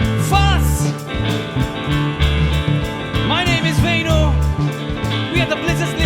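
A band playing country-rock style music with a steady beat and bass line, and a sliding guitar or wordless vocal line bending in pitch.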